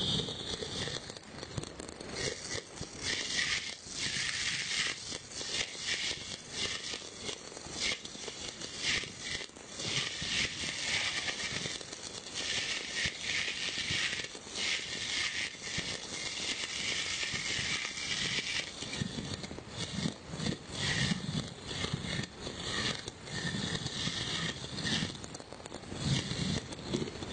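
Many fireworks going off at once across a city: dense, continuous crackling and popping with frequent sharp bangs, and some lower booms toward the end.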